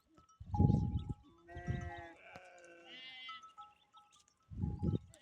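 Goat bleating twice, about a second and a half in and again about three seconds in, with a loud low thump near the start and another near the end.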